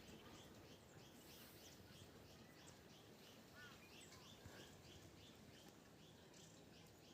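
Near silence with faint birds chirping: runs of short, high notes repeated several times a second.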